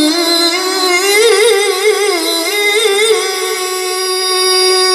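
A male qari's voice in Qur'anic recitation (tilawah), drawing out one word in a long melodic run: quick wavering ornaments in the middle, then a long steady held note.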